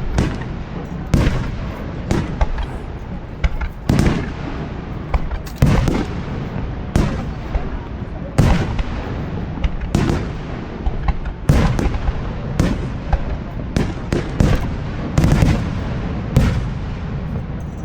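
Aerial firework shells bursting one after another, a sharp boom about every second with low rumbling between the bursts.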